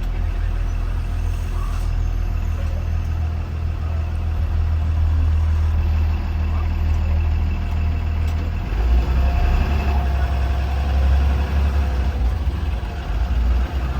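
Blue Bird Vision school bus engine and drivetrain running as the bus drives, heard from inside. The engine note shifts lower about nine seconds in.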